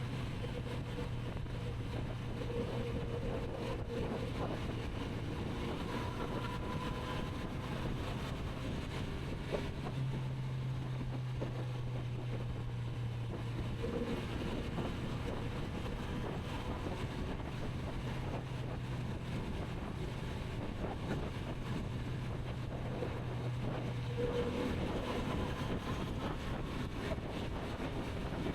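Kawasaki Z900RS inline-four engine running steadily while cruising, with wind rushing over the microphone. Its note rises slightly about ten seconds in and settles back a few seconds later.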